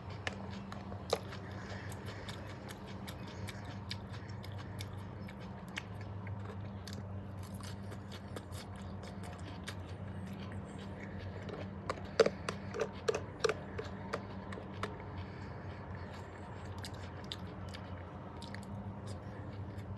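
A person eating close to the microphone: chewing and biting, with a run of louder crunchy clicks about twelve to fourteen seconds in. A steady low hum runs underneath.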